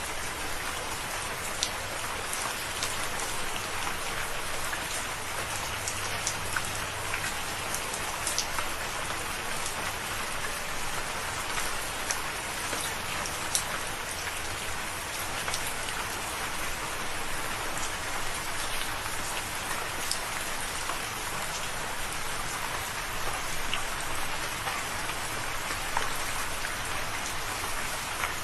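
Steady rain falling, with many individual drops pattering sharply over a continuous hiss.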